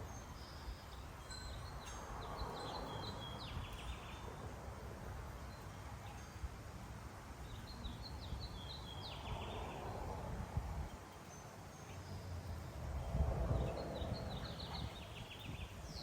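A small songbird singing the same short song three times, about six seconds apart: a few high stepped notes ending in a quick run. A steady low rumble runs underneath.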